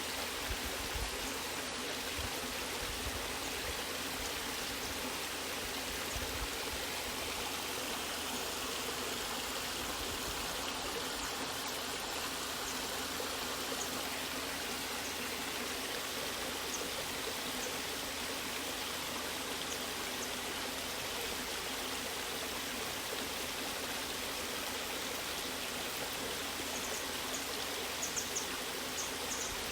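Natural waterfall water rushing and splashing in a steady, unbroken flow, with a few faint ticks near the end.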